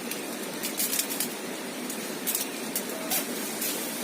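Steady rush of flowing river water, with a few short, sharp clicks scattered through it.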